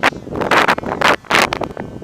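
Strong wind buffeting the microphone, coming in three loud gusts with quieter gaps between them.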